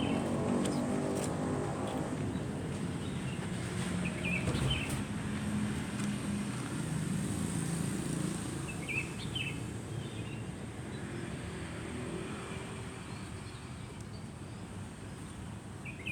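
A vehicle engine running with a low hum that slowly fades, and short bird chirps at about four and a half seconds, nine seconds and near the end.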